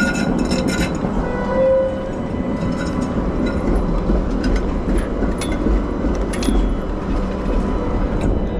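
Steady road rumble of a bicycle riding along a city street, with scattered small clicks and rattles throughout.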